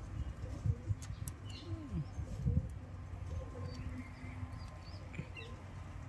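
A bird cooing in a few low, falling calls about two seconds in, over a steady low hum. Scattered light metallic clicks come from the motorcycle's chain and front sprocket being handled.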